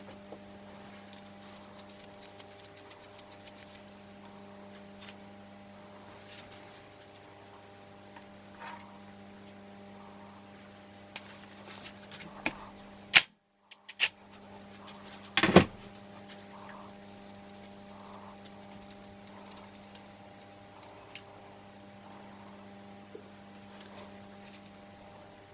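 Hand tools and metal engine parts clicking and tapping against each other over a steady electrical hum, with a few sharp, loud metal clanks about halfway through.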